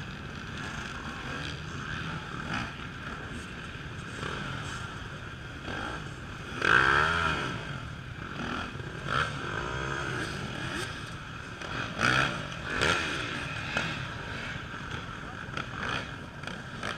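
Off-road motorcycle engines revving, with swells of engine noise about seven seconds in and again around twelve to thirteen seconds. A public-address announcer's voice runs underneath.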